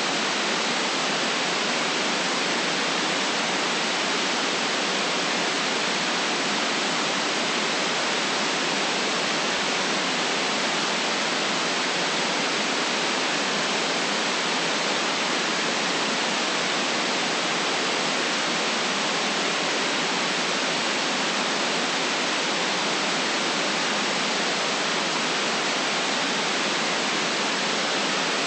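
Steady white noise played for sleep: an even, unchanging hiss with the deep bass and the highest treble cut away.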